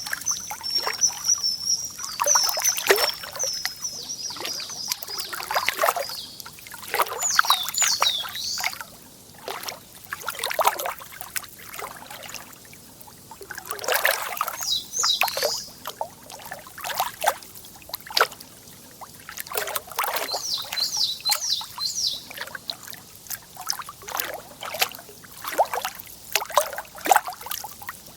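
Lake water lapping and trickling at the shore in constant irregular splashes, with a small songbird singing high, quick phrases of falling notes several times over it.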